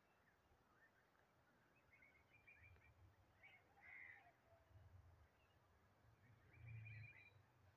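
Near silence outdoors, with faint scattered bird chirps and a few soft low rumbles.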